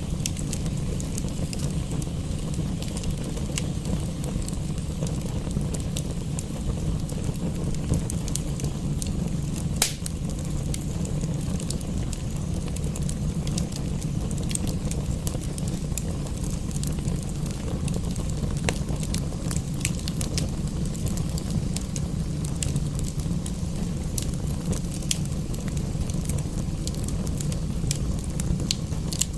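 Wood fire in a fireplace crackling, with scattered sharp pops and one louder pop about ten seconds in, over a steady low rumble and soft hiss.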